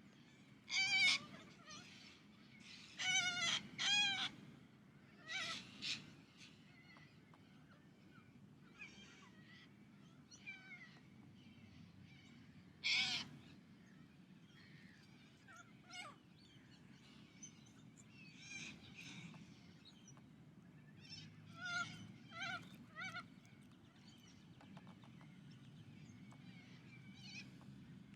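Little corellas giving harsh, screeching calls in scattered bouts. The loudest calls come in the first few seconds and about 13 seconds in, with fainter calls later, over a low steady background rumble.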